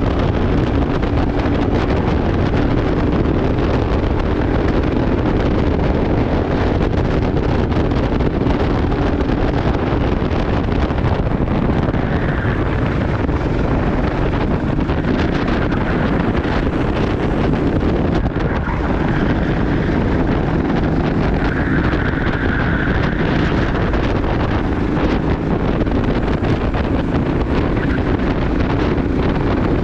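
Go-kart engine running at race speed, with heavy wind buffeting on the microphone.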